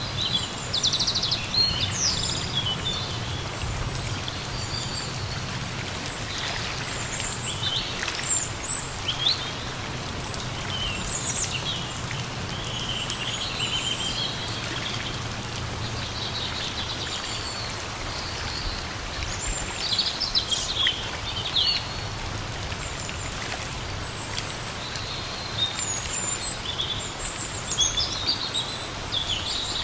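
Steady rain falling in a forest, with birds chirping and calling on and off throughout.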